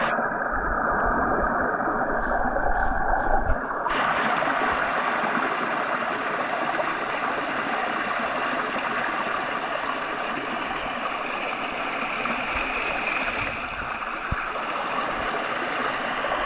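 Steady rush of creek water at a small waterfall. It sounds dull for the first few seconds, with a brief knock just before it opens up to a brighter, fuller rush about four seconds in.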